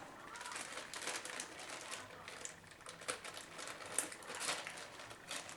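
Plastic crinkling with a dense run of short clicks and taps as small PC case parts and their packaging are handled.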